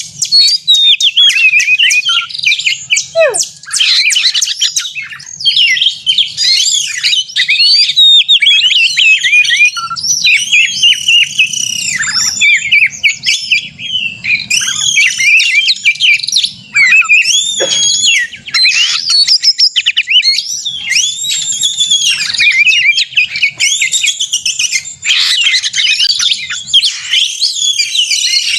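Oriental magpie-robin (kacer) singing a fast, almost unbroken run of varied whistles, trills and harsh chattering notes. This is the agitated 'konslet' song of a bird worked up to fight.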